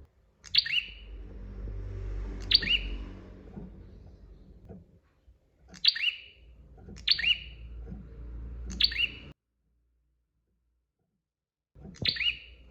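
Prinia (prenjak) giving loud, sharp chirping calls, each a quick note falling in pitch, repeated about once every one to two seconds, six in all, over a low rumble. The sound drops out completely for about two seconds before the last call.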